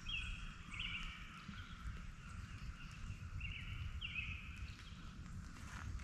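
Outdoor ambience with repeated short high-pitched animal calls, each ending in a falling sweep, about once a second over a steady low rumble.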